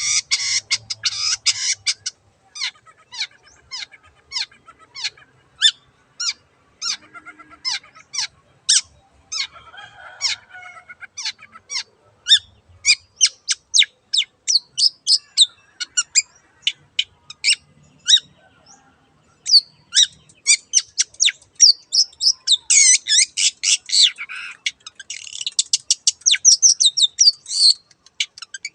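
Long-tailed shrike (cendet) singing: a long string of short, sharp high notes, spaced out at first and quickening, broken by dense bursts of rapid chattering near the start and again in the last few seconds.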